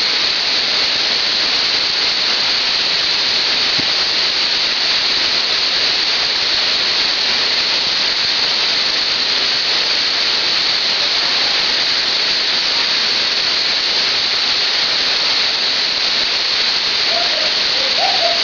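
Waterfall rushing: a loud, steady, even wash of falling water that does not change.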